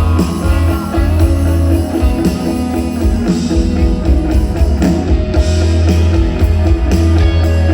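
Live rock band playing a loud instrumental passage with no vocals. Guitar is prominent over heavy, booming bass and drums, as picked up by a phone's microphone in the audience.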